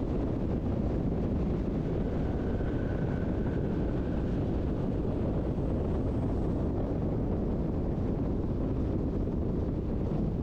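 Steady running rumble of a Berner Oberland-Bahn narrow-gauge electric train, heard from inside the carriage, with a faint thin high tone from about two to four and a half seconds in.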